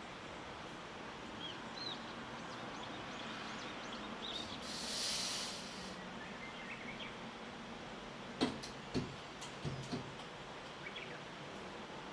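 Morning outdoor ambience: a steady background hiss with faint, short chirps of small birds scattered throughout. A brief burst of high hissing comes about five seconds in, and a few sharp knocks or clicks fall between about eight and ten seconds in, the loudest sounds.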